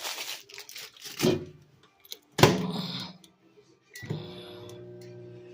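Handling knocks and a sharp clack like a microwave oven door shutting, then a short beep about four seconds in as the microwave starts. It then runs with a steady low hum.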